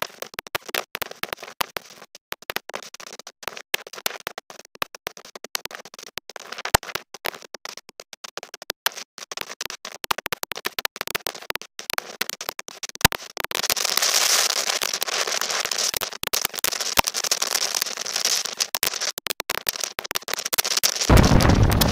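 Gale-force wind buffeting the camera microphone, heard as dense irregular crackling and scratching with no low rumble. A steady high hiss grows louder a little past halfway through.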